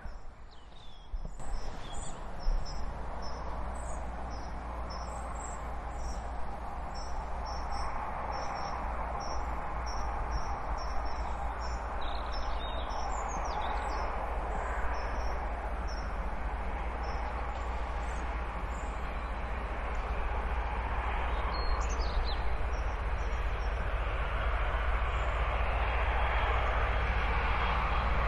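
Blue Pullman high-speed train (class 43 HST power cars) approaching from a distance: a steady rushing rumble that slowly grows louder. Birds chirp high above it, and there is a brief thump about two seconds in.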